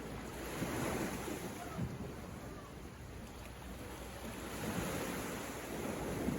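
Sea waves breaking and washing on the shore, the surf swelling up twice, about a second in and again near the end.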